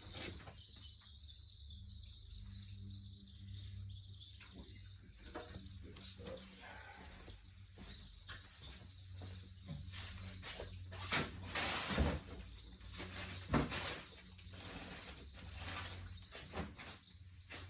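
Birds chirping in the background over a steady low hum, with scattered clicks and knocks of things being handled; a few louder knocks come just past the middle.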